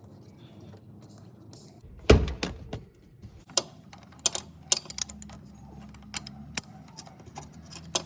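A loud knock about two seconds in, then a string of sharp metallic clicks and taps, with a faint steady hum coming in about halfway through.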